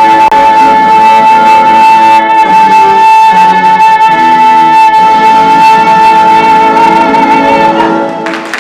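Live stage orchestra playing the final held chord of a show tune, with one long, steady high note sustained over it. The note cuts off about eight seconds in, and applause begins right at the end.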